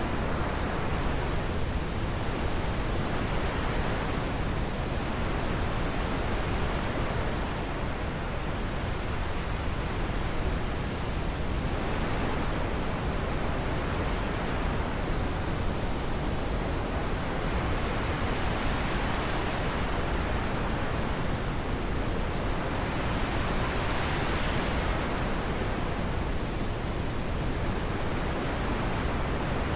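Wind blowing, a steady rushing hiss that rises and falls in slow swells every several seconds as gusts come and go.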